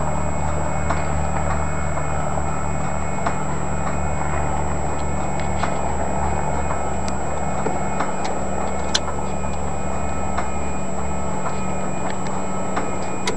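Turbine engine turning on its starter during a start attempt that does not light off: a steady hum with a constant high whine and a regular light ticking about once a second.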